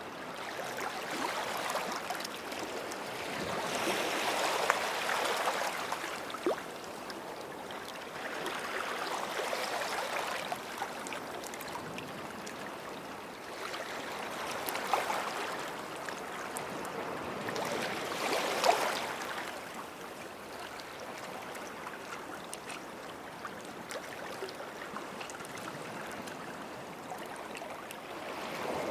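Small sea waves washing onto a sandy shore and draining back, with a swell about every four to five seconds that eases into a lower, steady wash for the last third.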